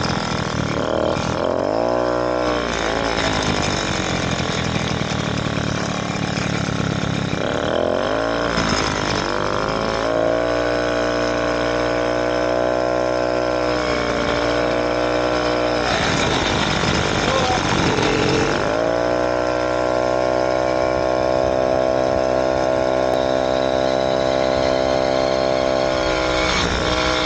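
An 80cc two-stroke motorized bicycle engine (BBR Tuning BT80) running hard at high revs with a steady pitch. Three times, about 2, 8 and 18 seconds in, the pitch dips and then climbs back up.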